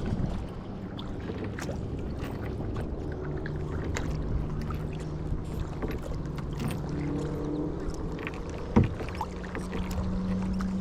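Kayak being paddled on a lake: water sloshing and dripping around the hull over a steady low rumble, with small clicks and one sharp knock near the end. Faint low hums come and go.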